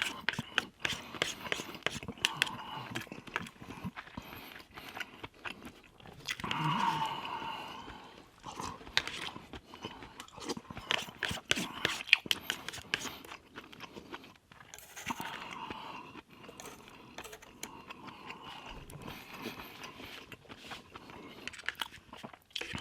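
Close-miked mouth sounds of a person chewing and eating garlic butter shrimp: wet smacks and short clicks throughout, with a brief hummed voice sound about seven seconds in.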